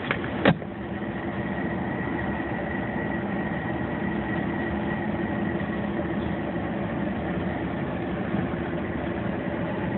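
Steady hum of a car's engine heard from inside the cabin, with one sharp click about half a second in.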